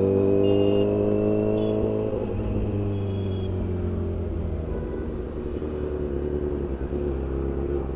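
Motorcycle engine pulling under throttle, its pitch climbing for about two seconds, then easing off to a lower steady running note, with road and wind noise.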